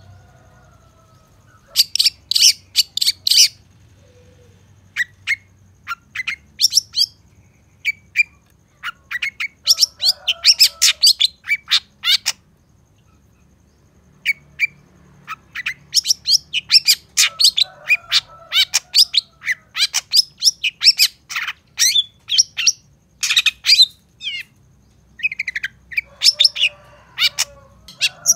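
Long-tailed shrike (cendet) singing: rapid runs of short, sharp, high chirps in bursts of a second or more, with pauses between, and fainter lower warbling notes underneath at times.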